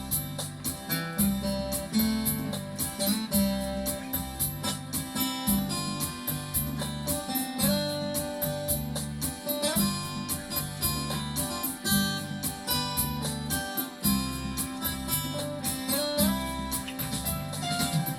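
Instrumental music played on a Yamaha Genos arranger keyboard: a guitar-like plucked melody over a steady, evenly repeating bass and drum accompaniment.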